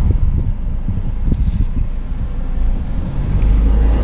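Low rumble of a Ford Focus driving slowly over a rough, bumpy road, heard from inside the cabin, with scattered knocks and jolts in the first couple of seconds. The rumble becomes steadier and louder near the end.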